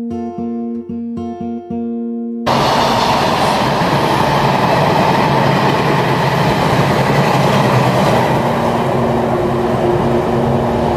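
A short run of plucked guitar notes, then a sudden cut to the loud, steady rushing of a passenger train's locomotive and carriages running through a station at speed.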